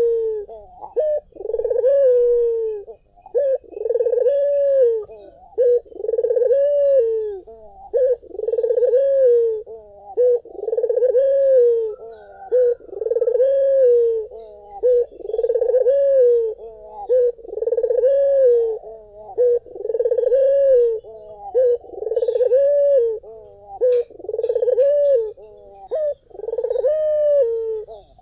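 Puter (Barbary dove) cooing over and over, a low coo that rises and falls in pitch, repeated about every two seconds.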